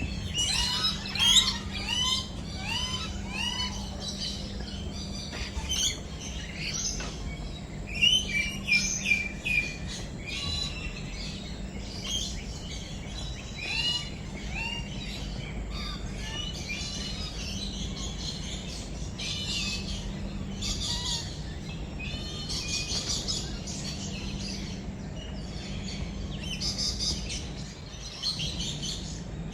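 Many birds chirping and calling over one another in a busy, overlapping chorus of short chirps and whistles, over a steady low hum.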